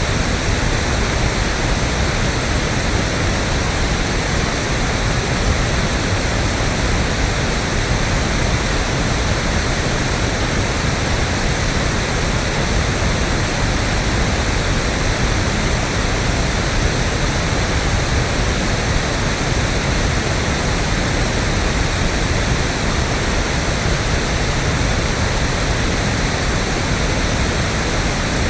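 Electronically generated pink noise: a steady, even hiss.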